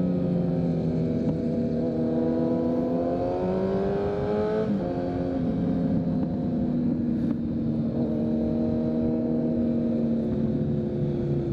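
2023 Kawasaki Z900's inline-four engine through a full Leo Vince exhaust under way: the revs climb for a couple of seconds, drop at an upshift about four and a half seconds in, then hold fairly steady at cruise, with wind rush underneath.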